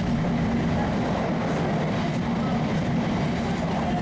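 Steady running noise of a Nozomi Shinkansen bullet train at speed, heard inside the passenger car.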